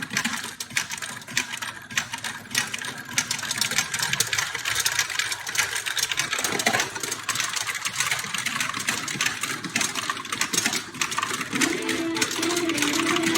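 Woody Woodpecker pachinko machine in play: steel balls clattering down through the pins in a dense, continuous rattle.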